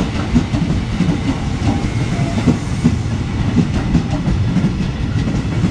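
Ex-JR 203 series electric commuter train (KRL) rolling slowly past at close range: a steady low rumble with its wheels clacking over the rail joints.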